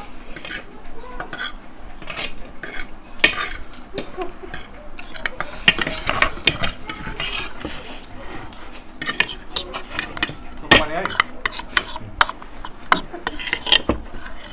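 Cutlery clinking and scraping against plates in quick, irregular strokes as food is stirred and scooped up.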